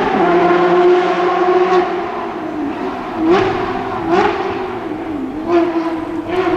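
Porsche rally car's flat-six engine running hard at high revs, then three sharp, quick revs about a second apart, each a brief jump in pitch.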